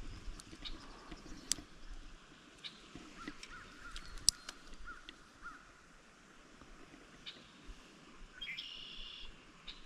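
Birds calling: a run of short chirps a few seconds in and a longer call near the end, among a few sharp clicks.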